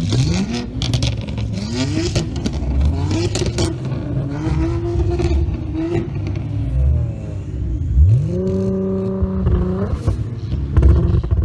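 Nissan R35 GT-R's twin-turbo V6 revved in repeated blips, with sharp pops and bangs from the exhaust as it shoots flames. About eight seconds in, it is revved up and held high for over a second, then let drop, followed by more bangs.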